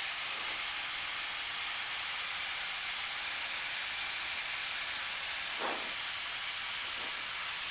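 Steady hiss of cockpit noise in a Cessna 172 in flight, with a couple of brief faint sounds about five and a half and seven seconds in.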